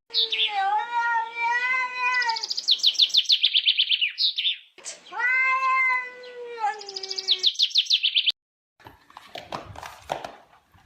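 A cat meowing in two long, drawn-out yowls, each ending in a fast run of short high ticks. The sound cuts off suddenly about eight seconds in, leaving only faint scattered noises.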